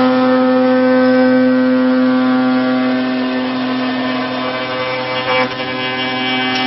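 INTERCNC five-axis CNC router milling, its spindle and cutter giving a steady high-pitched whine with a strong cutting tone that sets in sharply at the start, as the tool engages the workpiece, and holds throughout.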